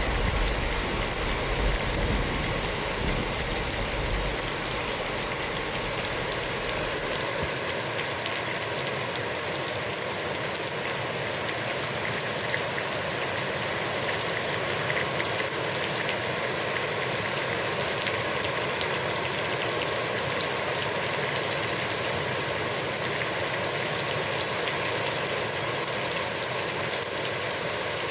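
Heavy rain falling steadily on a pond's surface, an even hiss scattered with drop ticks. The tail of a low thunder rumble dies away over the first few seconds.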